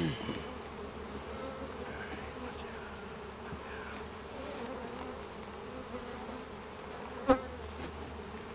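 Honey bees buzzing steadily in a dense hum around an open hive, with one sharp knock about seven seconds in.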